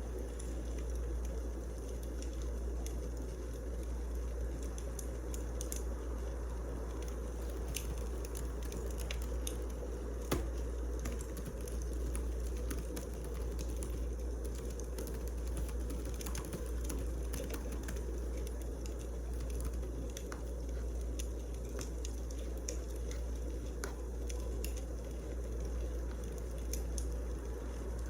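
Wood fire burning in a fireplace, a steady low rumble with scattered sharp crackles and one louder pop about ten seconds in.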